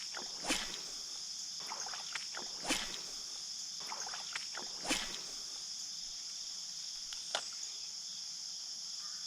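Insects chirring in a steady high-pitched drone, with short sharp noises about every two seconds over it.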